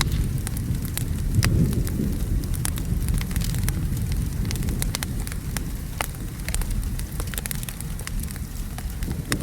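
Wood fire crackling with many sharp irregular pops, over steady rain and a low rumble of distant thunder.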